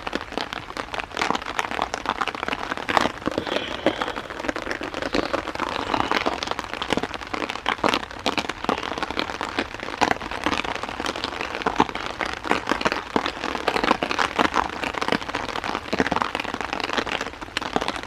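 Heavy rain drumming on a tarp shelter overhead: a dense, irregular patter of drop impacts over a steady hiss.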